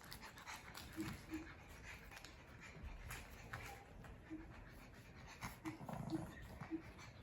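Two dogs, a Maltese among them, playing tug-of-war: panting, with about seven short squeaky whimpers scattered through it and small scuffling clicks.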